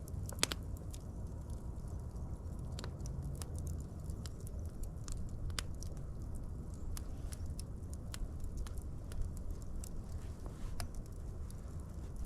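Wood fire crackling: scattered sharp pops and snaps, one louder pop about half a second in, over a steady low rumble of the flames.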